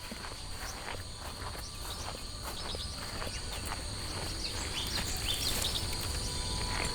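Insects, crickets or similar, keeping up a steady high-pitched chirring drone, with scattered irregular soft taps and clicks over it and a low steady rumble beneath.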